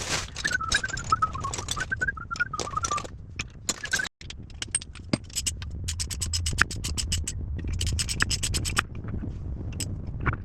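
Rapid back-and-forth scraping, in runs of about eight to ten quick strokes a second, with a wavering squeal during the first three seconds.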